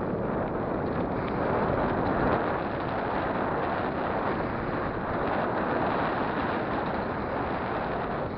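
Wind rushing over the microphone of a mountain bike riding downhill at speed: a steady, loud rushing noise.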